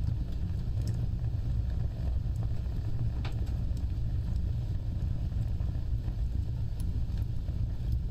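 Fire burning with a steady low roar of the flames and a few sharp crackles scattered through it, the clearest a little over three seconds in.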